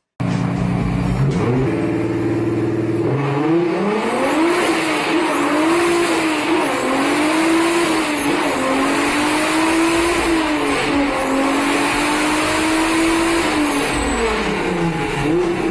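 A car engine running hard, its revs held steady at first and then rising and falling again and again, over a loud rush of wind and road noise.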